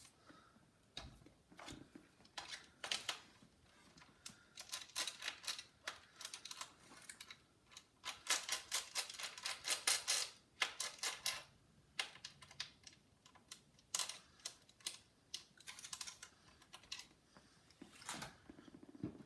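Bursts of quick, sharp clicking and ticking from a precision screwdriver working at a stuck screw in a laptop's chassis, the bit turning and slipping on the screw head. The clicks come in irregular clusters, densest and loudest about halfway through.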